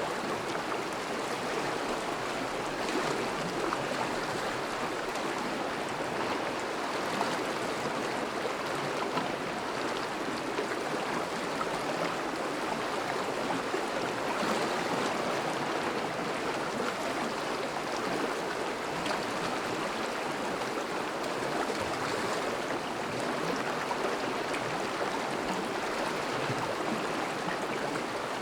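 A thawing river flowing steadily between snowy banks, its moving water making an even rushing and babbling.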